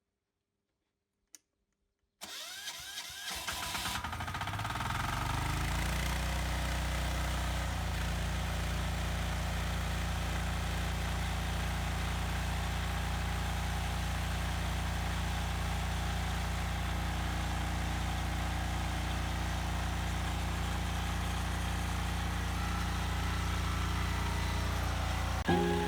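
Weima walking tractor's engine starting and speeding up over a few seconds, then running at a steady speed.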